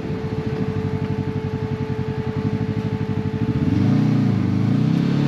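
Can-Am Maverick X3 side-by-side engine running at low speed with fast, even pulsing and a steady whine over it. Nearly four seconds in, it revs up and down as the throttle is worked over rough trail.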